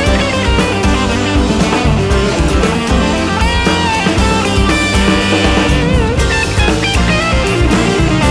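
Instrumental passage of a 1970s-style prog-rock band: a lead line with bending notes over guitar, bass and a steady drum kit.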